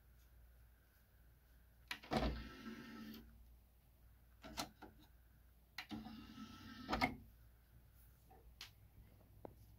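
Motorised disc tray of a Yamaha DVD-S795 DVD/CD player running twice, sliding out and back in. Each run is a little over a second of motor whirr with a clunk at its start and end. A few light clicks come in between and near the end.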